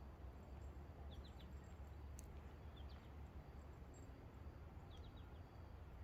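Near silence with a low steady rumble, and faint short bird chirps in small clusters three times.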